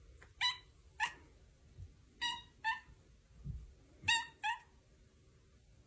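Six short, high-pitched cries from a small animal, coming in three pairs about two seconds apart.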